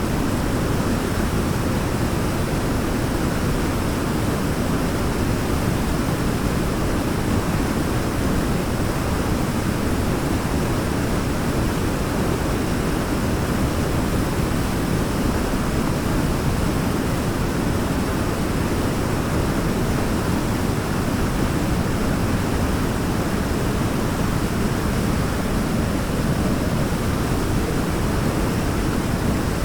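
Waterfall, a steady deep rush of falling water, even and unbroken.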